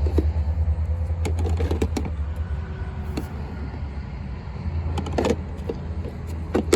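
Small toolbox on the side of a sub-compact tractor being opened and handled, giving scattered light clicks and knocks, over a steady low rumble.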